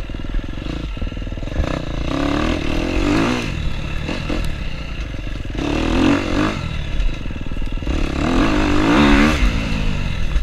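KTM enduro dirt bike engine running on a trail ride, revving up and easing off in three surges with some clatter from the bike.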